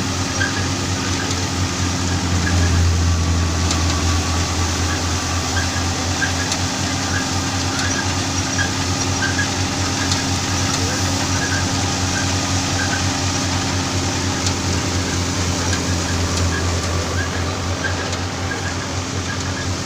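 Tractor-powered thresher running steadily: a continuous engine drone with the machine's noise over it, swelling slightly about two seconds in.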